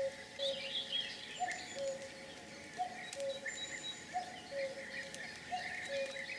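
Birds calling: a repeated low two-note call, high then low, about once a second, over scattered higher chirps and twitters.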